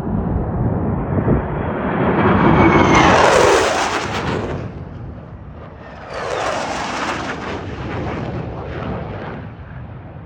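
Single-engine F-35B fighter jet making a low-level pass. Its noise builds with a high whine to the loudest point about three seconds in, dips briefly, surges again about six seconds in, and then fades away.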